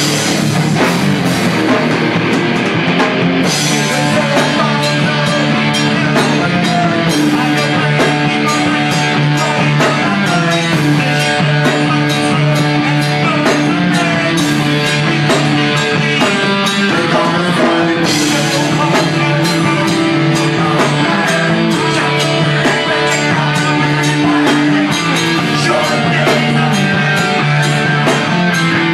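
Live rock band playing loudly: distorted electric guitars, bass and drum kit, with cymbal crashes at about 3.5 s and 18 s.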